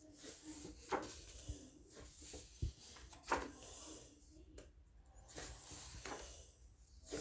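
Faint rustling of paper pages being turned and handled, with a few light knocks and clicks.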